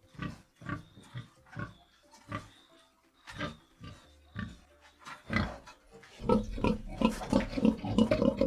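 Domestic pig grunting: short separate grunts about two a second, becoming louder and nearly continuous about six seconds in.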